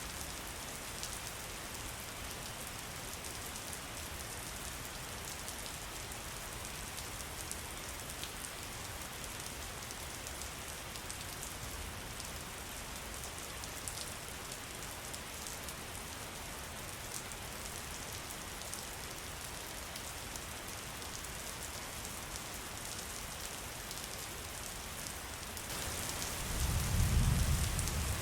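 Steady rain falling on a surface: an even hiss with scattered drop ticks. A brief low rumble swells near the end.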